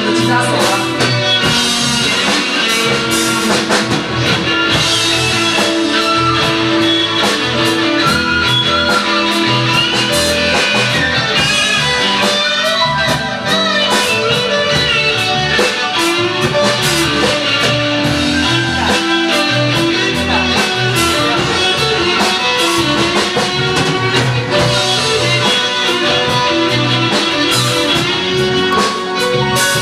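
Band music with guitar over a drum kit, in a rock or blues style, playing steadily throughout with no singing.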